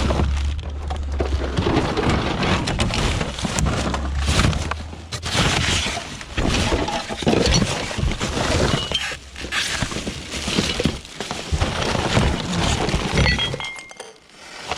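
Scrap being pulled apart and handled: a dense run of clattering, cracking and knocking impacts, with a low rumble in the first second or so and again around four seconds in.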